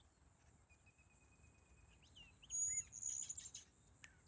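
Outdoor nature ambience: a steady high insect drone, with a long level whistled bird note followed, about two seconds in, by a flurry of brief bird chirps and sliding calls.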